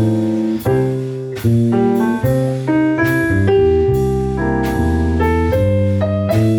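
Jazz music with piano in the lead, playing chords and melody notes over a steady beat of sharp drum-like hits.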